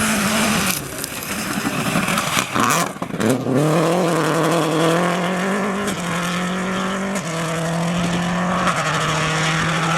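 Rally car at speed: a loud rush of engine and tyre noise for about three seconds, then the engine note rising and held high as it drives on, dipping slightly in pitch a few times.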